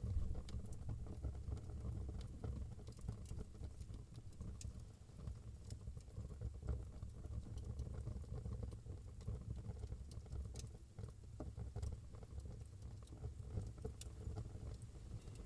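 Wood fire burning in a fireplace: a low steady rumble with scattered sharp crackles and pops.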